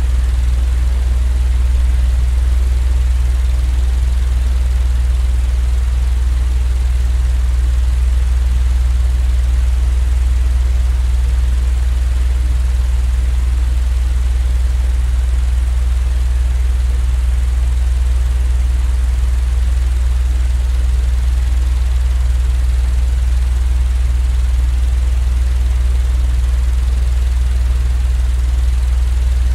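Steady, unchanging low rumbling drone of a white-noise sleep track, strongest at the very bottom with a faint even hiss above it.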